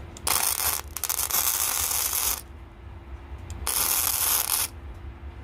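Power drill boring holes for secondary air, run in two bursts: about two seconds, a pause, then about a second.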